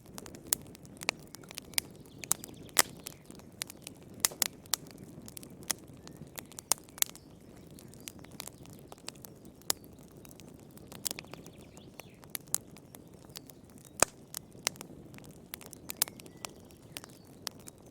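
Wood fire crackling in a fireplace: irregular sharp pops and snaps, a few much louder than the rest, over a steady low background hiss of the fire.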